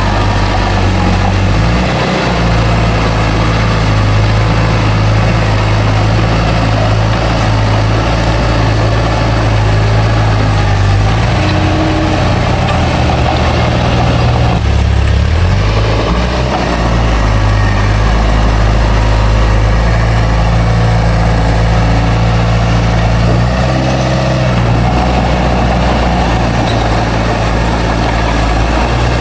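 Heavy diesel engine of a bulldozer running steadily, its pitch shifting briefly a few times.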